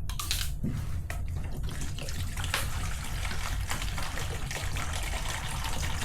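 Water boiling on the stove, a steady bubbling hiss over a continuous low hum, with a few faint clicks.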